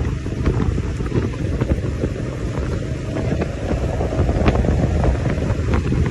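Heavy diesel machinery running with a dense low rumble, with scattered knocks and clatter throughout.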